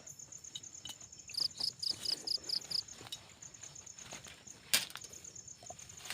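Crickets chirping in a steady, rapidly pulsed high trill, with scattered faint clicks and one sharp click near the end.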